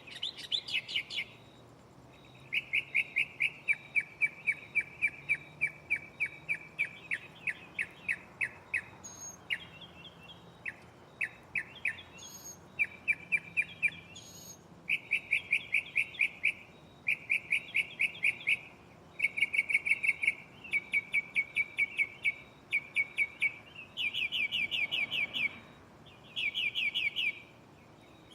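Northern mockingbird singing: a string of rapid chirps and trills, each phrase repeated several times before it switches to a new one, with brief pauses between phrases.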